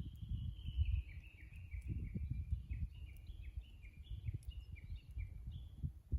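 A Japanese bush warbler gives a long run of quick, repeated two-part notes that step down in pitch and trail off near the end. Under it runs an uneven low rumble with thumps.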